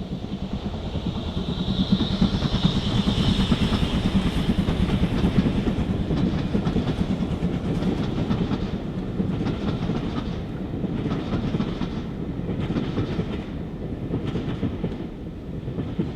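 Steam-hauled train passing at speed. It builds to its loudest a couple of seconds in, then eases, with wheels clicking over rail joints through the second half.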